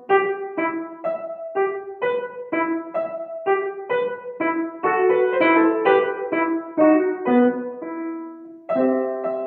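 Piano played by a young child: a melody of separate, evenly struck notes, about two a second, with a longer held note and a brief pause near the end.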